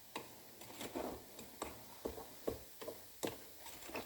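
Spoon tapping and scraping against a bowl while stirring damp homemade dishwasher-tablet mix, a quick, uneven run of small knocks, about two or three a second.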